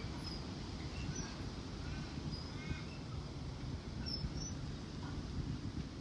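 Faint birds chirping here and there in the background over a steady low rumble on the microphone.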